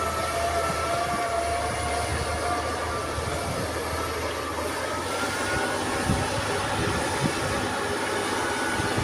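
Engine of a heavy vehicle such as a truck running steadily, a droning hum with a few held tones that drift slightly in pitch. A few short low thumps come in the second half.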